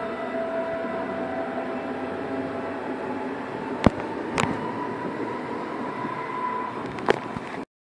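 Munich S-Bahn electric train rolling along the platform and slowing to a stop: steady rail and running noise with a thin whine, and three sharp clicks, two around the middle and one near the end. The sound cuts off suddenly just before the end.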